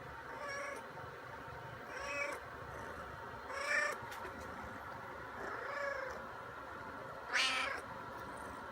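Domestic cat meowing five times, about every one and a half seconds, each meow rising and falling in pitch; the last one is the loudest.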